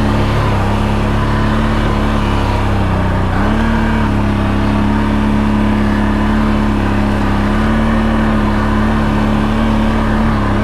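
ATV engine running steadily under load in low gear on a rough trail, its pitch dipping briefly about three seconds in before the revs pick back up.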